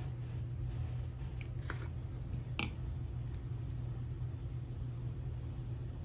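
A few light clicks and taps of small metal gearbox parts being handled and fitted together by hand, over a steady low hum.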